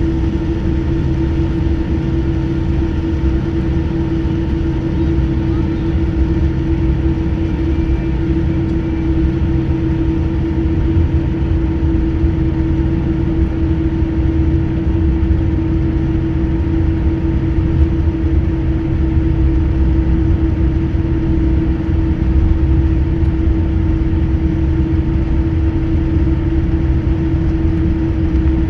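Steady drone of an airliner's engines heard inside the cabin, a constant hum over a low rumble, with no change in pitch or loudness, as the plane waits or taxis before takeoff.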